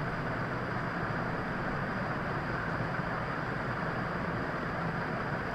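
Steady background noise, an even hiss with a faint high whine running through it, and no speech.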